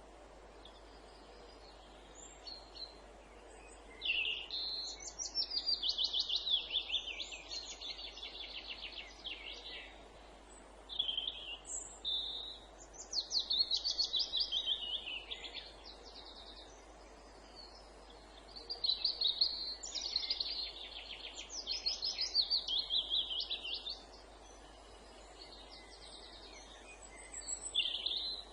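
Songbird singing in phrases several seconds long, each a fast run of repeated notes, with short pauses between phrases, over a faint steady background hiss.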